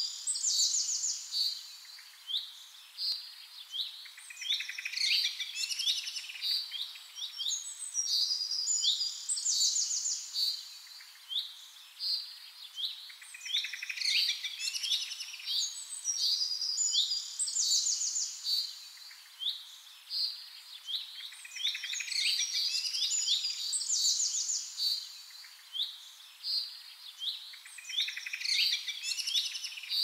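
Birdsong: clusters of quick, high chirps and trills that recur every four to five seconds over a faint steady hiss.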